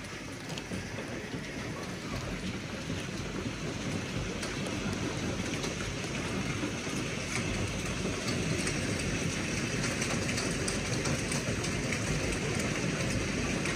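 Rain falling steadily, with many fine ticks of drops striking, growing gradually louder.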